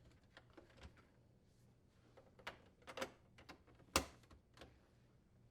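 Scattered faint plastic clicks and taps as a refrigerator wire harness connector and its cover are fitted and snapped into place. The loudest click comes about four seconds in.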